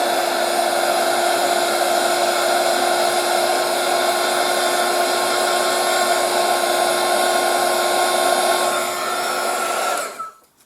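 Handheld hot-air blaster blowing steadily with a constant whine, warming epoxy resin in a mould; it is switched off about ten seconds in and quickly winds down.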